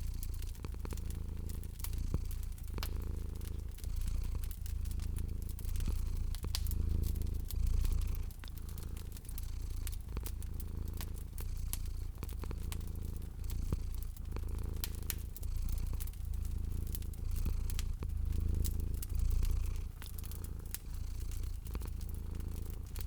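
Domestic cat purring steadily, swelling and fading with each breath about every two seconds, over the scattered pops and crackles of a fireplace fire.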